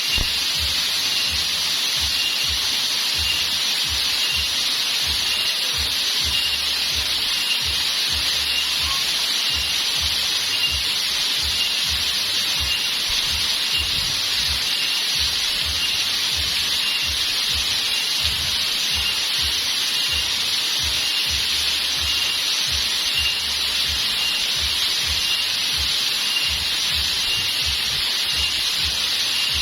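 Flowing water rushing steadily, with a chorus of insects: a high constant buzz and a pulsing chirp about twice a second.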